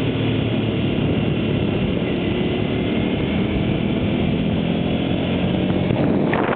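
Honda VT250's V-twin engine running steadily under way, mixed with wind noise, with a few clicks about six seconds in.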